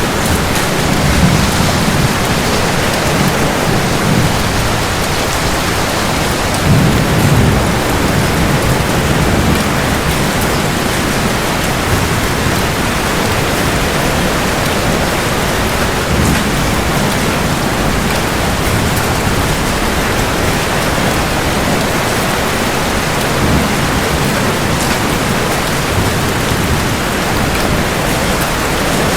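Steady heavy rain falling, with low rolls of thunder swelling and fading underneath it several times.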